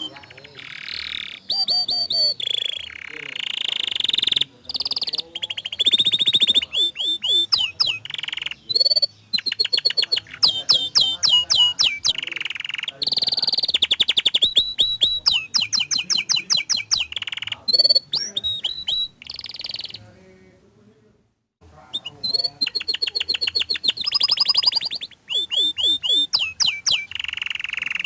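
Domestic canary singing a long, varied song of rapid rolling trills, sharp repeated notes and held whistles, with a brief pause about twenty seconds in.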